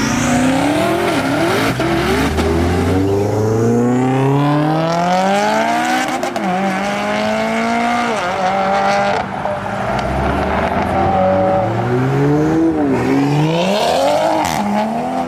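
Car engine revving hard and accelerating, its pitch climbing and dropping back several times.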